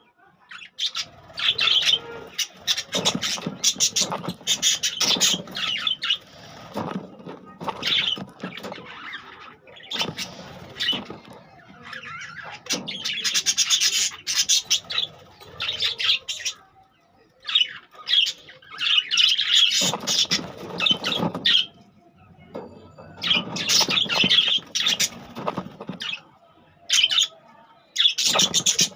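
Budgerigars chattering and chirping in bursts of a few seconds at a time, with short pauses between.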